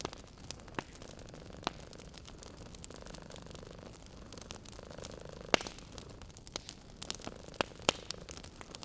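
Wood fire crackling in a fireplace, irregular sharp pops over a low hiss, the loudest pop a little past halfway. A cat purrs faintly underneath in slow swells.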